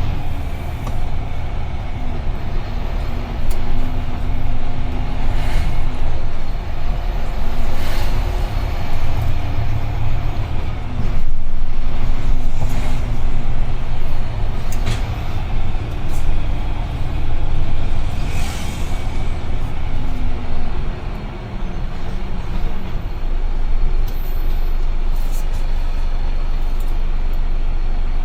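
UD Trucks Quon heavy truck's diesel engine running under way, with a strong low rumble and its pitch rising and falling several times, and a few brief sharp sounds over it.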